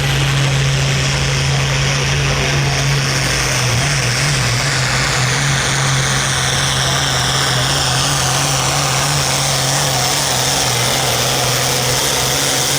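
Modified pulling tractor engine running hard at full throttle during a pull. A high whine above it drops slowly in pitch.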